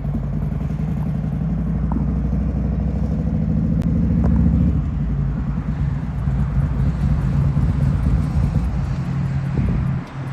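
Harley-Davidson V-twin motorcycle engine running at low speed, a little louder about four seconds in.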